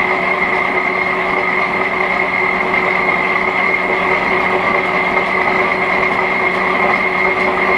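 Vintage Hendey metal lathe running steadily under a heavy roughing cut, taking over an inch off the diameter in one pass with a high-speed-steel chip-breaker tool. A steady high whine sits over the machine noise.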